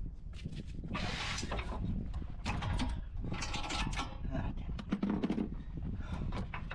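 Irregular clicks, scrapes and clatter of metal tools and parts being handled during engine work, over a steady low rumble.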